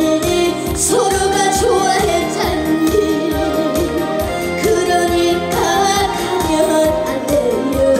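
A female singer singing a Korean trot song live with vibrato, over band accompaniment with a steady beat.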